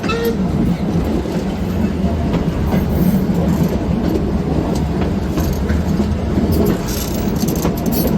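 Heritage steam-hauled train running along the track: a steady rumble of wheels on rails, with scattered light clicks and rattles.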